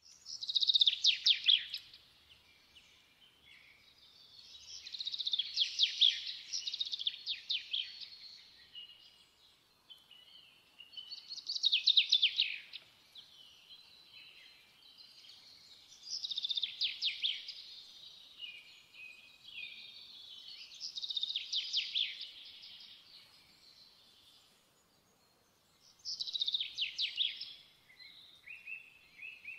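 A songbird singing: six short, rapid trilled phrases, each about two seconds long, coming roughly every five seconds with quiet between them.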